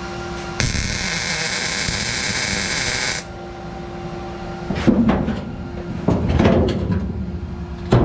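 A welding arc crackles steadily for about two and a half seconds as a bracket is welded onto the car's sheet-metal floor tunnel. It then stops, and a hammer strikes the welded bracket several times in the last few seconds, checking that it is solidly attached.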